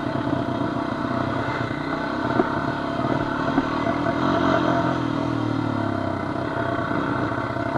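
Honda FourTrax quad's engine running steadily as it rides a rough trail, with a few light knocks and clatter from the machine over the ground.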